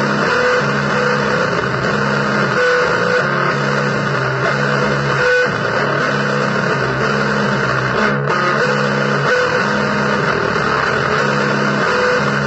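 Noise-blues music on electric guitar: a low riff of pitched notes that repeats over and over under a dense, steady wash of noise.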